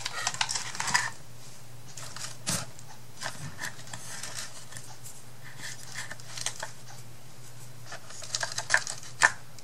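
Scattered light clicks, taps and rustles of paper and craft pieces being handled and pressed onto a wooden box, over a low steady hum. There is a cluster of sharper clicks near the end.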